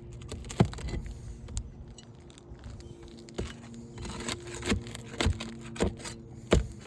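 Metal roofing tool knocking and scraping against asphalt shingles as roofing nails are worked loose to free a damaged shingle. There are several sharp, irregular knocks, the loudest about half a second in and near the end.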